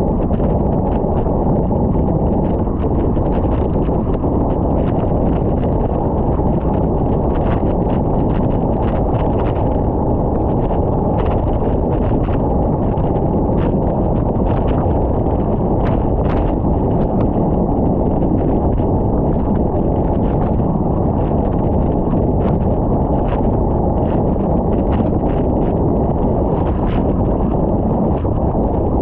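Wind buffeting the microphone of a camera on a moving bicycle: a loud, steady low rush, with scattered sharp clicks throughout.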